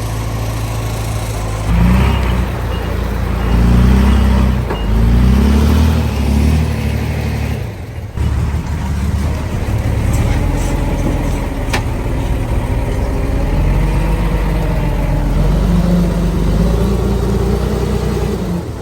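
Heavy diesel engine of earthmoving machinery (a dump truck and mini bulldozer at work) running, revving up and down several times in the first few seconds, then running more steadily with small changes in speed after a brief dip about eight seconds in.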